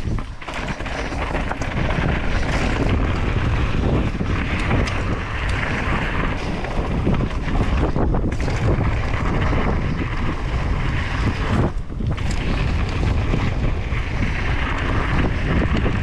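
Wind buffeting the microphone of a helmet-mounted camera while a mountain bike is ridden, a heavy rushing rumble with scattered knocks and rattles from the bike on rough ground.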